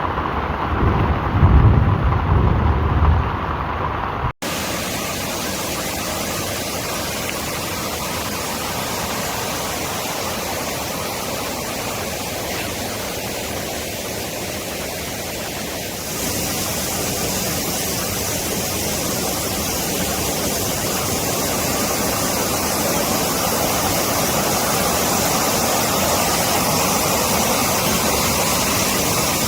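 Thunder rumbling over falling rain for the first four seconds. After an abrupt cut comes a long, steady rush of water, which turns a little louder and brighter about halfway through.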